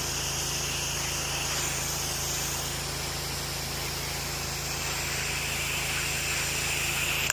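Pressure washer running with the wand spraying, likely laying on soap: a steady engine hum under a loud hiss of spray. The spray cuts off suddenly at the very end as the trigger is released, leaving the engine running quieter.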